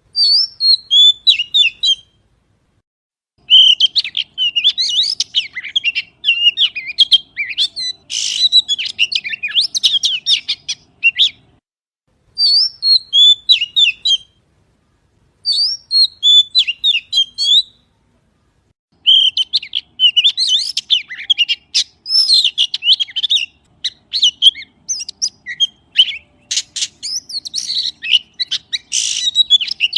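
Magpie calling: rapid, varied chirps and short whistled notes in loud bouts of a few seconds, broken by brief silent gaps.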